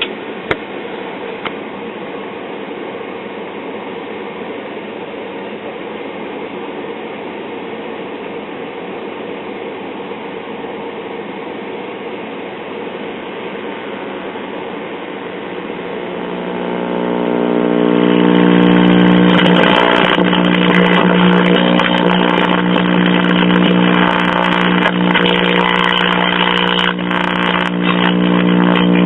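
1966 Zenith AM tube clock radio's speaker giving a steady hiss with a low hum, which swells over a couple of seconds, about halfway through, into a loud, steady buzzing hum with crackling. A hum like this from an old tube set is typical of dried-out filter capacitors.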